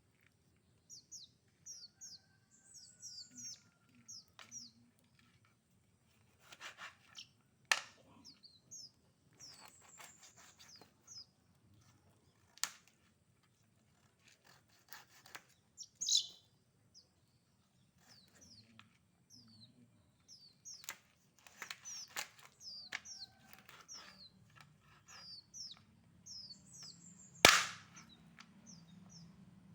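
Small birds chirping over and over in short, quick, falling notes, with a few sharp knocks and some rustling between them; the loudest knock comes near the end.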